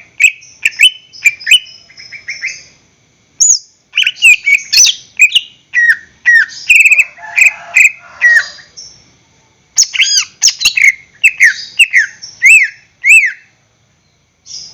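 Greater green leafbird (cucak ijo) singing loud, rapid runs of sharp, down-slurred whistled notes, in bursts broken by brief pauses. The song stops shortly before the end, with one short note after it.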